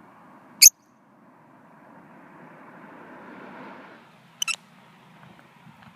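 A vehicle passing, its sound swelling and fading over about two seconds in the middle, over a faint steady low hum. A sharp, very short high sound comes about half a second in, and a quick double one near the end.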